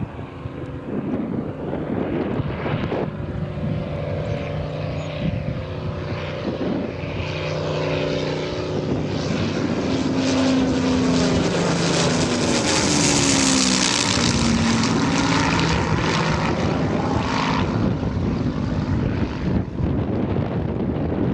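Propeller-driven military aircraft passing overhead: the engine drone builds to its loudest a little past halfway, and the engine tones drop in pitch as it goes by.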